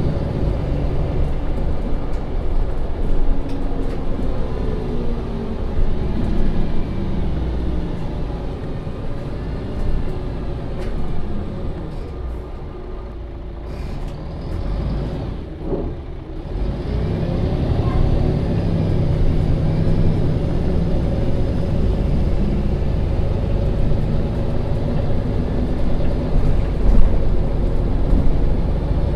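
2015 MAN Lion's City NL 283 city bus driving, heard from aboard: the diesel engine and transmission run with a pitch that rises and falls through the gears. It eases off and goes quieter about halfway through, then pulls away and builds up again.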